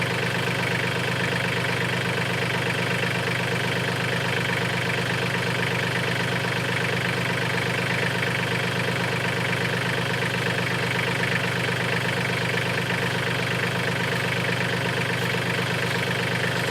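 Mahindra farm tractor's diesel engine running steadily at a constant speed, with no revving or change in pitch.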